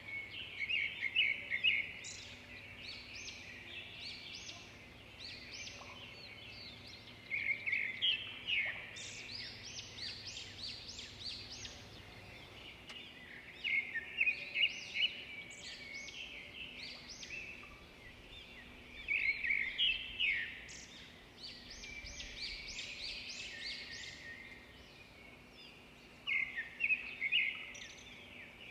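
Songbirds singing: a rapid chirping phrase comes about every six seconds, five times over, with a faint steady hum underneath.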